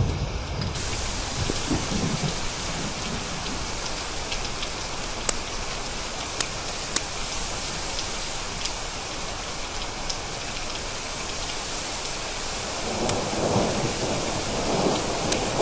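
Steady rain falling, with a few sharp drip-like ticks. Thunder rumbles in the first couple of seconds and again near the end.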